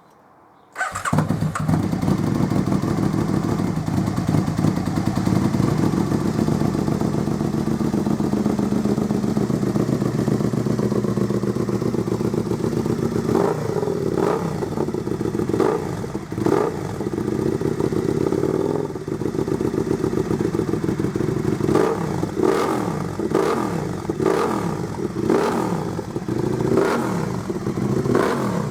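Aprilia RSV Mille's V-twin engine through a short aftermarket stainless race can (Delkevic SS70 stubby exhaust), starting about a second in and idling loudly, then revved in a series of short throttle blips from about halfway, coming more often near the end.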